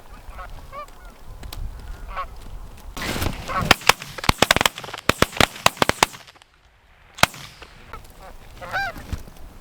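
Geese honking, then a rapid volley of about ten loud shotgun shots over some three seconds from several guns, with one more shot a second later; a goose honks again near the end.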